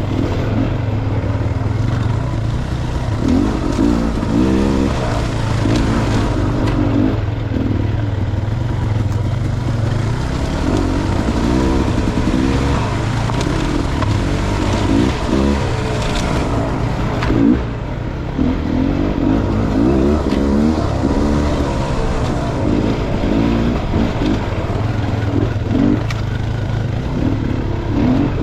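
Dirt bike engine running continuously on a trail ride, its pitch rising and falling again and again as the throttle is opened and closed.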